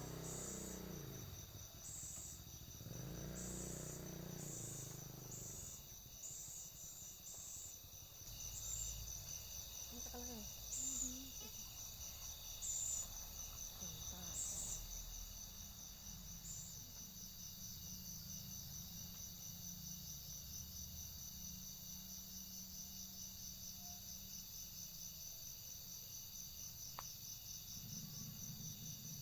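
Insects chirping in a steady high pulsing trill, with short, higher chirps repeating about once a second through the first half.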